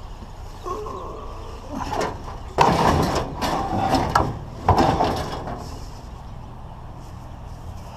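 Parts of a cut-down scrap treadmill being handled and shifted: a few seconds of scraping and rattling with sharp knocks, loudest in the middle.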